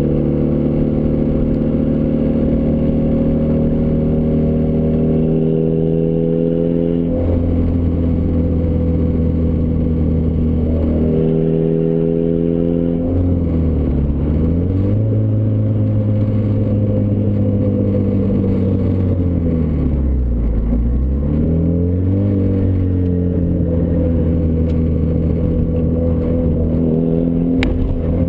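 Turbocharged Ford Escort ZX2's four-cylinder engine through a custom 3-inch side-exit exhaust, droning at steady revs as the car drives. The pitch shifts slightly a couple of times, and twice the revs dip briefly and climb back.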